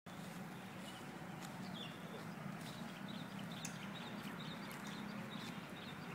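Small birds chirping faintly in short, high chirps scattered through, over a steady low hum, with a few light clicks.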